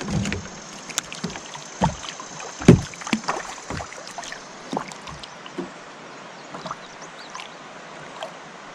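Scattered knocks and clicks of gear being handled in a fishing kayak on a river, with one louder low thump nearly three seconds in, over a steady faint hiss.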